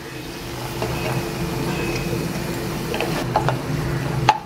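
Paneer cubes sizzling in butter and oil in a nonstick kadai while a wooden spatula stirs and scoops them out, with a steady hum underneath. A few light knocks of the spatula come near the end, the sharpest just before it finishes.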